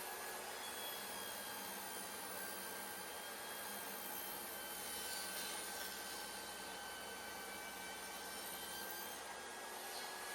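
Steady whooshing machine noise with a faint high whine, like a fan or vacuum motor running.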